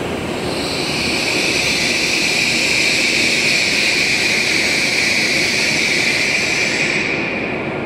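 E7/W7-series Shinkansen train running slowly along the platform as it pulls in: a steady rushing noise with a high hiss that fades near the end.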